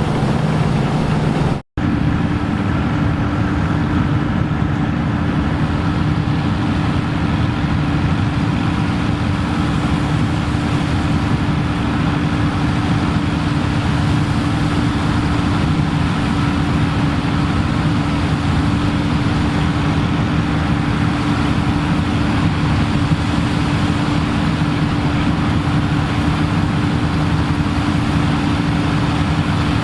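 Engine of vintage harvest machinery running steadily at constant speed, with a brief cut in the sound just under two seconds in.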